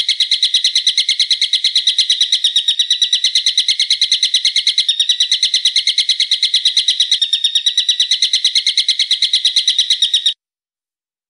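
A bird calling a rapid, even run of sharp, high repeated notes without a break, stopping abruptly about ten seconds in.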